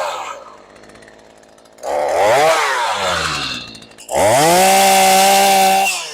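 Stihl MS 212 two-stroke chainsaw revved up in three bursts, dropping back to idle between them: one rev falling away just after the start, a second that rises and falls about two seconds in, and a longer one held steady at full speed from about four seconds until near the end, when it falls away.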